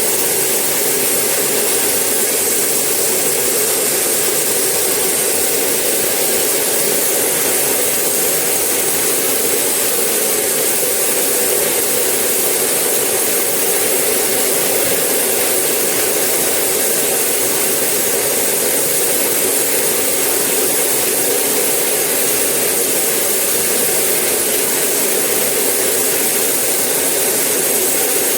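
Sawmill saw running steadily, a loud even noise with no breaks or changes.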